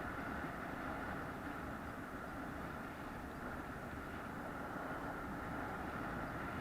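Steady running noise of a moving vehicle, an even drone with no change in speed.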